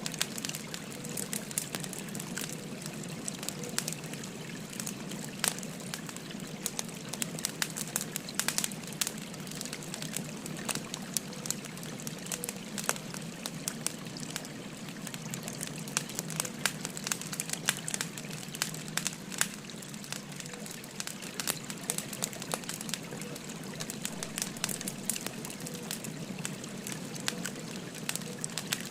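Burning firewood crackling with frequent irregular sharp pops and snaps, over the steady rush of a babbling river.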